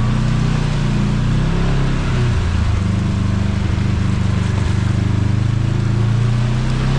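Kawasaki KRX side-by-side's parallel-twin engine running at a steady trail speed, the revs dipping briefly about two seconds in, with steady trail and wind noise over it.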